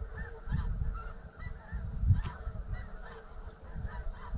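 Snow geese calling, a dense, overlapping chorus of short, high honks from many birds at once.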